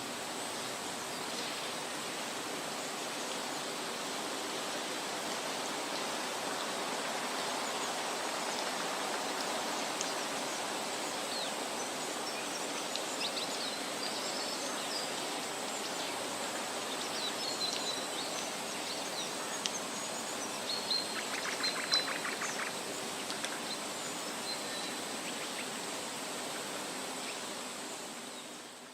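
Steady outdoor background noise, an even hiss, with faint high bird chirps scattered through the middle and a brief buzzy trill a little after 21 seconds. The sound fades out near the end.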